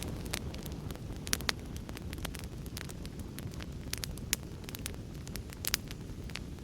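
Wood fire crackling, with sharp irregular pops and a few louder snaps, over a steady low rumble.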